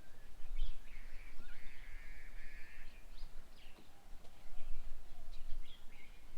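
Small birds chirping and calling at a bird table in short, scattered notes, with one longer, buzzy call about one and a half seconds in. A low rumble runs beneath the birdsong.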